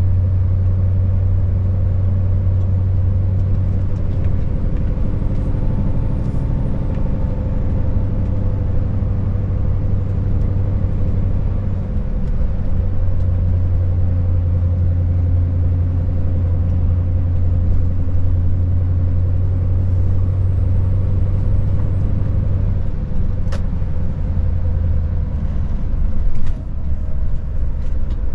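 Scania S580's V8 diesel engine running as the truck drives, a steady low drone with road noise, and a brief thump about 26 seconds in.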